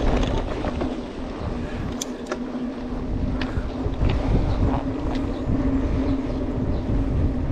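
Mountain bike riding over a rough off-road trail: steady tyre and trail rumble with a constant hum, broken by a few sharp clicks and rattles from the bike.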